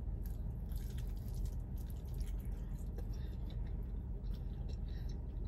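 Faint chewing of a chicken wing, with soft, scattered mouth clicks over a low steady hum.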